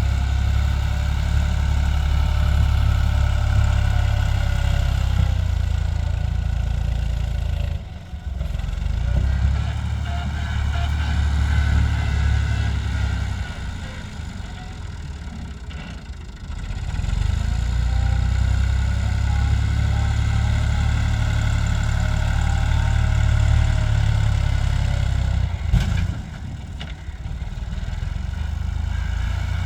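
Massey Ferguson tractor's three-cylinder diesel engine running under load, its strength rising and falling. The engine sound drops sharply about 8 seconds in and eases for a few seconds midway. A sharp knock comes near the end.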